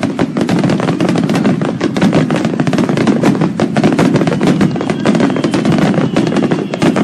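A string of firecrackers going off, a dense, unbroken rattle of sharp bangs. A faint high whine joins in near the end.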